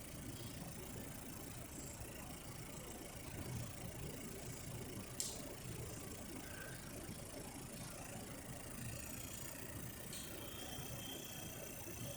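Holden Equinox 1.5-litre four-cylinder engine idling steadily, with two short clicks, one about five seconds in and one about ten seconds in.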